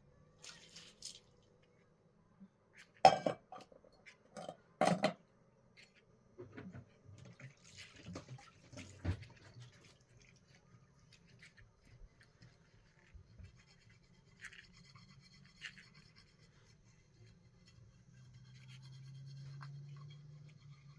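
Kitchen handling sounds: light scraping and scattered knocks of utensils during food preparation, with two sharp knocks about three and five seconds in and a faint low hum that swells near the end.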